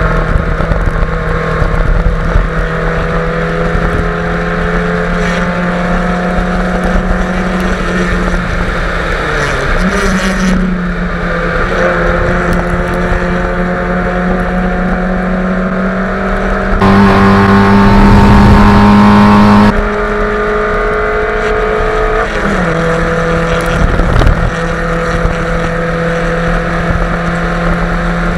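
Fiat Grande Punto race car's engine running hard at high revs on track, a steady note that dips and climbs again twice, about a third of the way in and again past three-quarters, with a louder, rougher stretch a little past the middle. Wind rushes over the microphone of a camera mounted on the bonnet.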